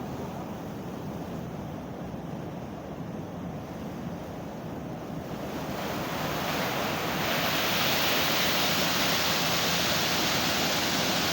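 Steady rushing noise that grows louder and hissier about six to seven seconds in.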